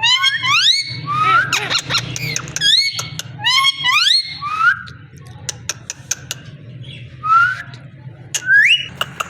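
Parrot giving a series of short rising whistles, several in quick runs with sharp clicks between them, and a quieter stretch about five to seven seconds in.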